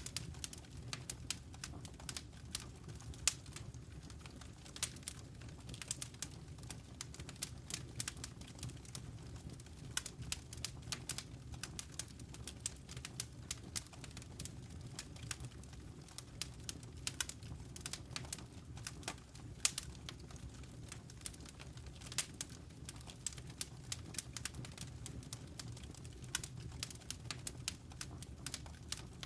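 Wood fire crackling in a fireplace: irregular sharp pops and snaps, several a second, over a low, steady rumble of burning flames.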